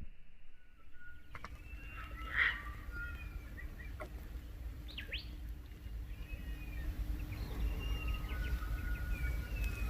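Several birds calling: short whistled notes and chirps, one louder call about two and a half seconds in, over a steady low rumble.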